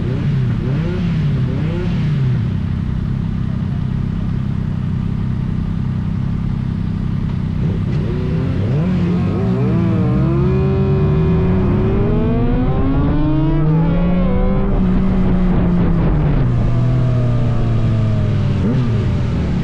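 Sport motorcycle engine revving and accelerating. Its pitch climbs in several steps from about eight seconds in, holds high, then falls away near the end, over a steady low rumble.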